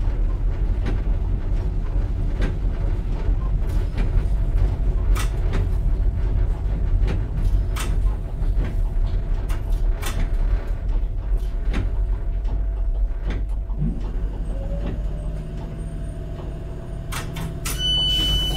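Tyne and Wear Metrocar running on the rails, its wheels clicking over rail joints at irregular intervals, then slowing with a short rising whine as it pulls into a station. A steady high electronic tone, typical of a door warning, starts near the end.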